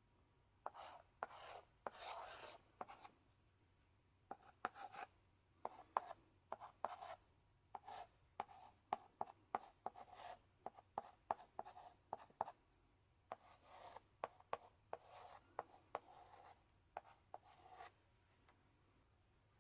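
Chalk in a chalk holder writing on a blackboard: clusters of short scratchy strokes and sharp taps, with a short pause about three seconds in and the writing stopping near the end.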